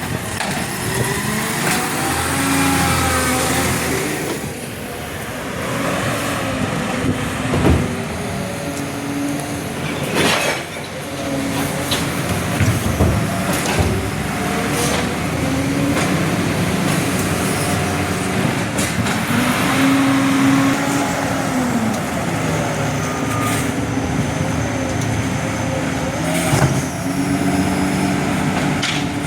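Garbage truck engine revving up and down several times, with a few sharp clanks.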